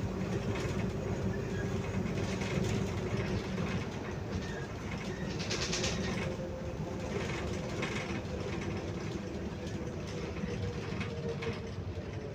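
Inside a MAZ 105 city bus under way: a steady drivetrain hum with a couple of held tones over road rumble, with frequent rattles from the body and fittings and a short hissy burst about halfway through.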